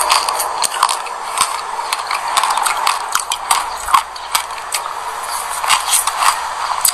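Close-up crunching and chewing of a mouthful of sesame seeds: a dense run of sharp, irregular crackles and crunches.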